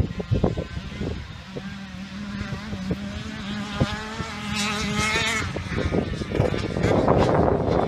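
KTM 105SX two-stroke dirt bike engine running and revving, its pitch climbing around the middle, then turning rough and noisy near the end.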